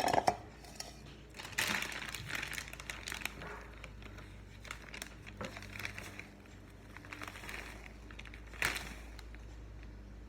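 A bag of flour crinkling and rustling as flour is scooped out for measuring, with a sharp clink at the start and bursts of rustling about a second and a half in and again near the end.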